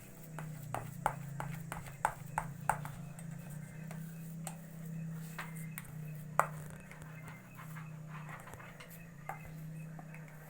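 Hands mixing and kneading soft fishing bait in a container: irregular clicks and taps, quickest in the first few seconds and sparser later. Under them is a steady low hum.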